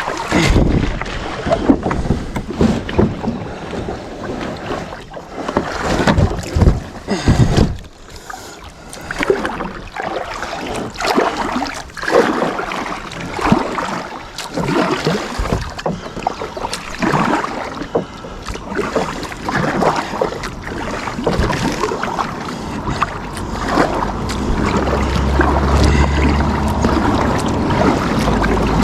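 Kayak paddling: paddle strokes splashing in the water at an irregular pace. Wind rumbles on the microphone in the last few seconds.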